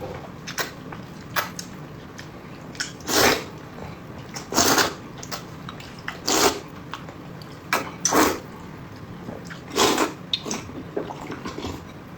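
Noodles being slurped in short, loud pulls about every one and a half seconds, with small clicks between.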